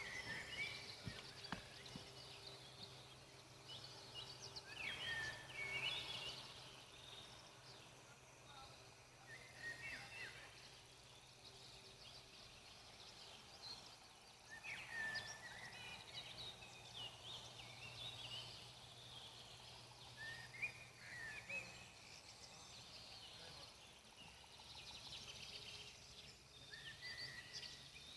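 Faint forest birdsong: a bird sings short, chirping phrases about every four to six seconds, with a few single faint pops like a campfire crackling, over a low steady hum.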